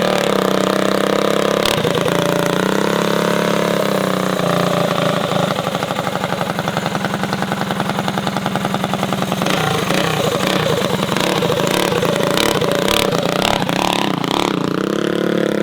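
Mini bike engine running, steady at first, with a fast even pulsing through the middle and its pitch rising and falling near the end.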